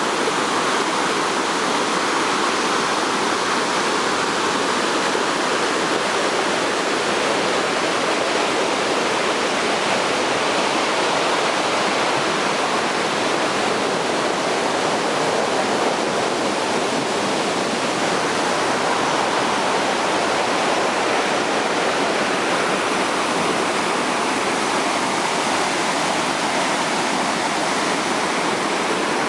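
Swollen Mogi-Guaçu river pouring over the dam and falls at Cachoeira de Emas: a steady, unbroken rush of water, loud because the river is running very full.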